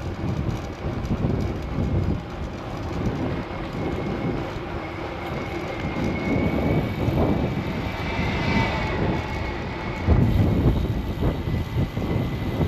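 Wind and road rumble on a bike-mounted action camera, with a motor vehicle passing whose thin whine swells and fades a little past the middle.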